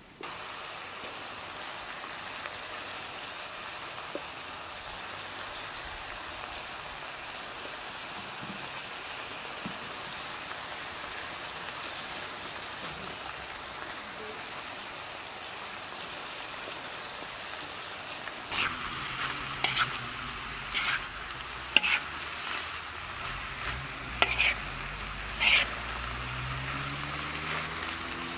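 Shredded chicken and onion frying in a wide pan with a steady sizzle. About two-thirds of the way in come a run of sharp scrapes and clinks as utensils stir and tap against the pan.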